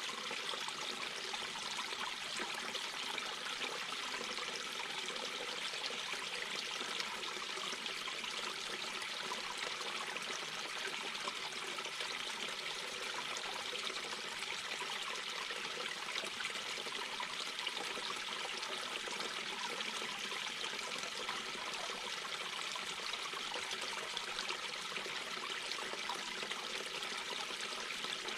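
Mountain brook babbling and trickling over rocks, a steady even flow of water.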